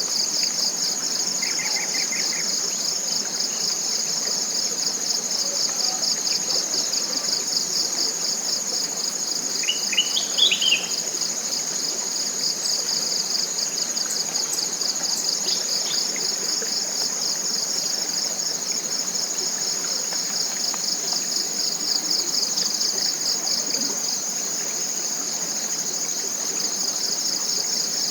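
Chorus of tropical forest insects: a continuous high-pitched, rapidly pulsing buzz over a steadier high hum. A bird gives a short chirping call about two seconds in and a louder burst of short rising calls about ten seconds in.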